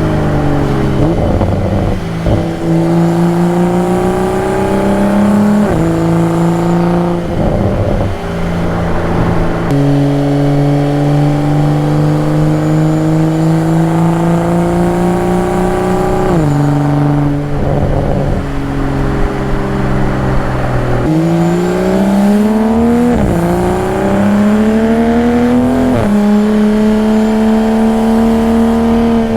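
2022 Toyota Supra engine, exhaust and induction under way on the road: the engine note climbs slowly in each gear and jumps in pitch at each of about ten gear changes, with several quick changes in the last third.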